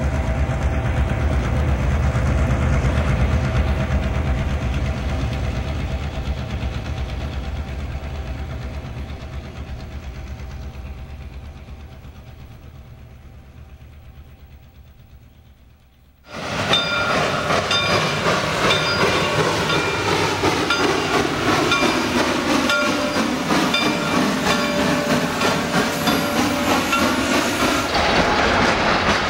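Railroad train sounds in two parts. First a train's low rumble fades away steadily over about sixteen seconds. Then the sound cuts in suddenly to a freight train rolling past close by, its wheels clicking over the rail joints in a steady clickety-clack.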